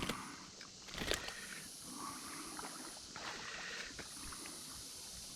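Insects chirring in long high-pitched stretches that come and go, with a few faint clicks and small knocks, the clearest about a second in.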